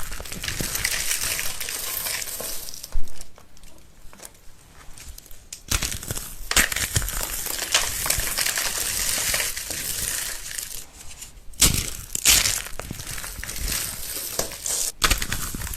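Brittle, crunchy material being crushed and crumbled: a dense crackling crunch in long stretches, quieter for a couple of seconds near the start, broken by a few sharp cracks.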